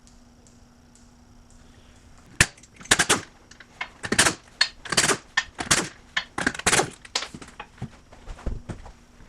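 An irregular run of sharp knocks and clatters starting about two seconds in, a dozen or so over six seconds, some brief and some a little drawn out, as tools and parts are handled close by.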